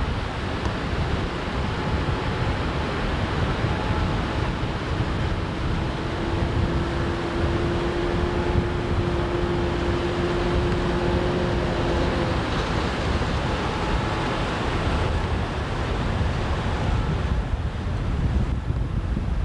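Wind rushing over the microphone on open water, a steady loud rumble. A faint steady tone, like a motor, runs through it for several seconds midway.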